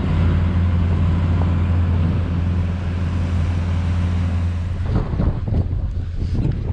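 BOSS truck-mounted snowplow's hydraulic pump running with a steady low hum as the blade is worked for the first time, cutting out after about four and a half seconds, followed by a few clunks.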